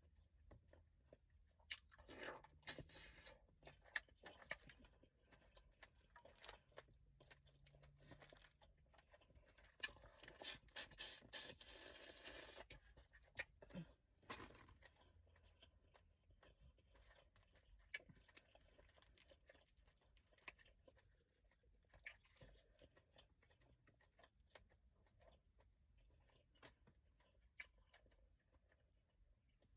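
Faint, close-up eating of boiled crawfish: shells crunching and cracking amid chewing, as scattered clicks throughout with two louder stretches of crunching about two and ten seconds in.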